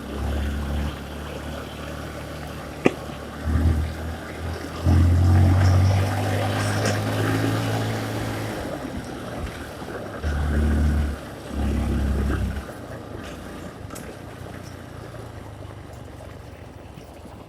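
Honda CRF150 dirt bike's single-cylinder four-stroke engine revving in short bursts of throttle, with one longer pull of about three seconds near the middle. A single sharp knock comes about three seconds in.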